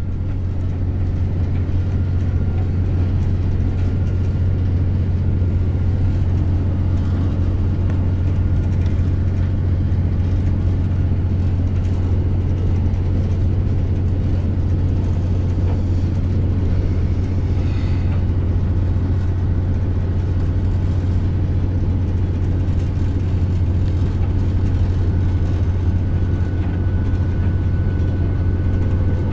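Interior running noise of a Class 168 Turbostar diesel multiple unit travelling at speed: a steady low drone, with a faint high whine that comes and goes.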